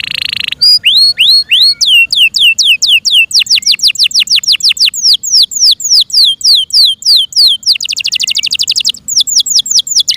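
F1 Yorkshire canary singing: a brief rapid trill, then a long run of repeated downward-sweeping whistled notes at about four a second. Near the end a fast rattling trill breaks the run before the sweeping notes return.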